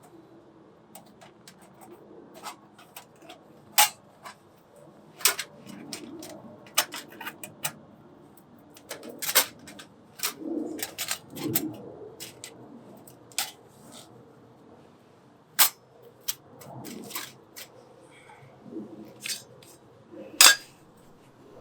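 Small wood fire crackling in a compact stove: irregular sharp pops and snaps, a few much louder than the rest, over a faint low rustle.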